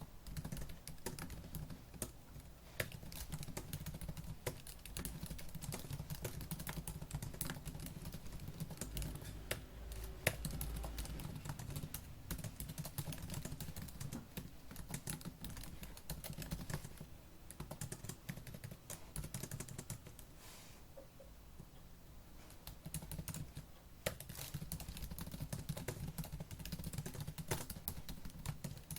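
Fast typing on a laptop keyboard: a dense, continuous patter of key clicks, thinning out briefly about two-thirds of the way through before picking up again.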